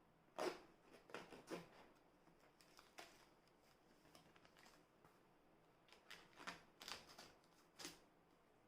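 Faint rustling and clicks of a small earbud box and its packaging being handled and opened, coming in short scattered groups with near silence between them.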